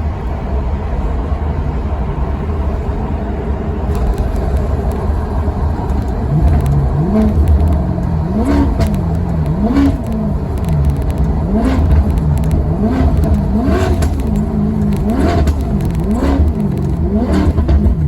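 Maserati Quattroporte Sport GT V8 engine running with a steady low rumble, then revved about nine times in quick succession, each rev rising and falling in pitch, with sharp pops from the exhaust as the revs fall.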